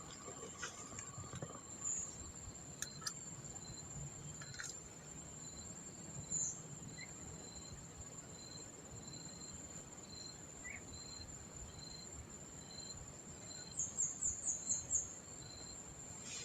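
Faint insect chorus, crickets: a steady high-pitched trill with a softer ticking pulse about twice a second. Around fourteen seconds in comes a quick run of six short high chirps.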